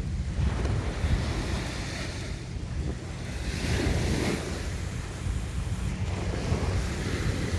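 Sea waves washing in, with a steady low rumble of wind buffeting the microphone; one wash swells up about four seconds in.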